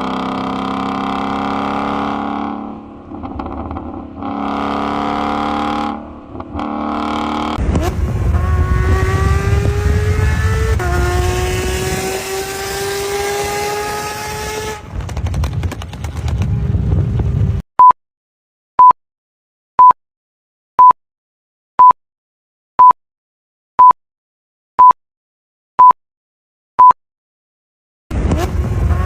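A performance car engine running at steady revs with two brief dips, then accelerating hard with pitch rising, shifting up twice. It then stops, and ten short beeps sound about one a second, a countdown timer, before the engine sound starts again near the end.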